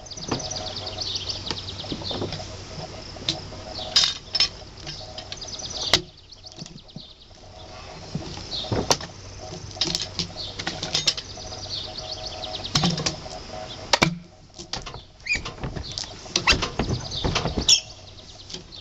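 Irregular knocks and clunks of a cant hook working a large spruce log, with birds chirping in the background.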